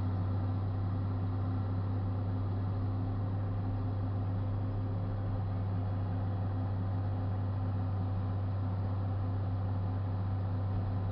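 John Deere 4430's six-cylinder diesel engine running steadily under load, heard from inside the tractor cab, with a constant low hum and no change in speed.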